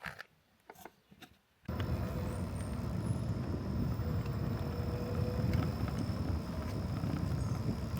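A few faint clicks, then, about a second and a half in, a steady low rush begins abruptly: wind on the microphone of a moving bicycle.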